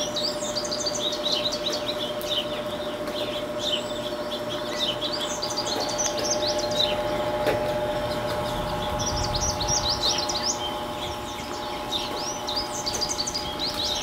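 Small birds chirping and twittering outdoors: many quick, high chirps in bursts, over a steady faint hum.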